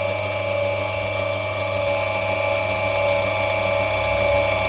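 Lapidary grinding machine's electric motor running steadily with a constant hum and whine, the wheel spinning with no stone being ground on it.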